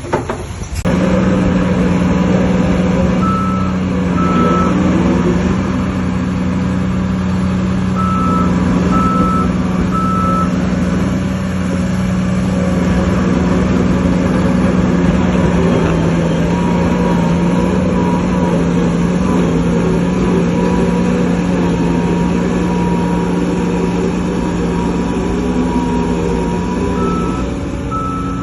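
Heavy diesel machinery engine running loudly and steadily, cutting in suddenly about a second in. A reversing alarm beeps in short runs over it: two beeps after a few seconds, three more a few seconds later, and another run near the end.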